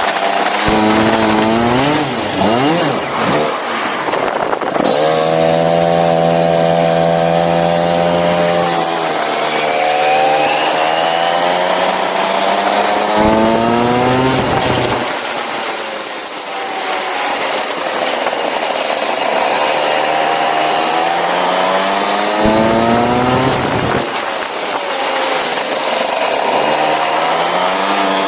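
Go-kart engine running hard under load, its pitch climbing as it accelerates, holding high for a few seconds near the start, then dropping and climbing again several times as the kart slows for corners and pulls out of them.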